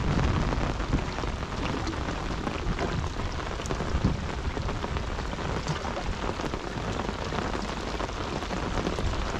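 Steady rain, a dense patter of drops on the sea and the boat, with a low rumble underneath.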